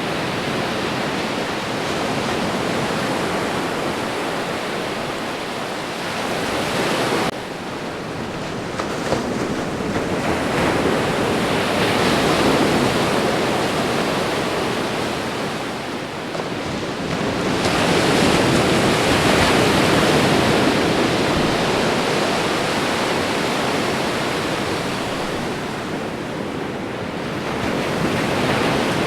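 Ocean surf breaking on a shore, a continuous wash of noise that swells and ebbs as waves roll in, loudest about 12 seconds in and again around 18 to 21 seconds. About seven seconds in, the sound drops suddenly to a quieter wash.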